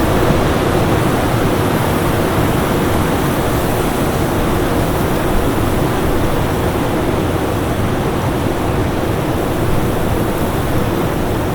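Winter storm ambience: a steady, even rush of storm wind with no single gust standing out, and a faint steady hum underneath.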